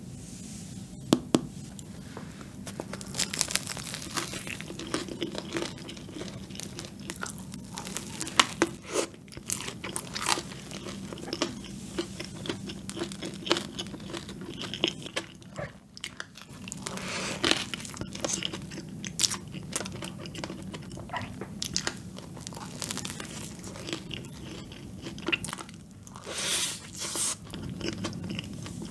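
Close-miked eating of cream-filled donuts: irregular bites, crunches and wet chewing clicks, over a faint steady low hum.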